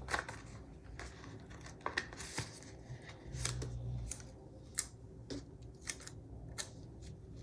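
Paper stickers and sticker sheets being handled and placed: a scattering of short, crisp paper snips and clicks, about eight over several seconds, with a brief low hum about three and a half seconds in.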